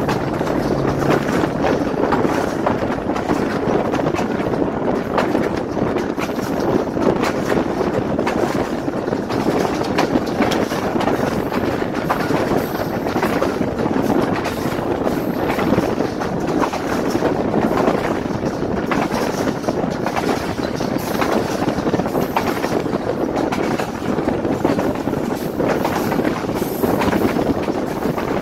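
Passenger train coach running along the track: a steady rumble and clatter of wheels on rail, heard from an open window of the coach.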